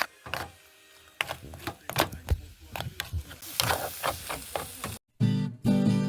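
Irregular clicks and knocks, as of small objects being handled, with a short hiss near the middle; after a brief break, acoustic guitar music starts near the end.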